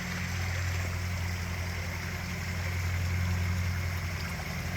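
Backyard pond waterfall splashing steadily, with a low steady hum underneath.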